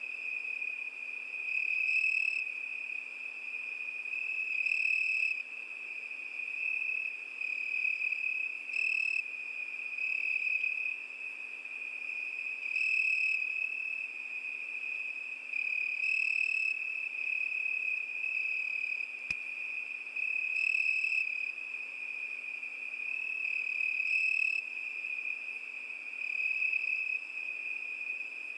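Cricket singing: one unbroken high-pitched trill that swells louder every three to four seconds.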